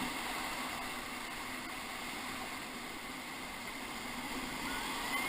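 Steady rushing of whitewater on the Ocoee River, an even hiss of moving water with no distinct splashes.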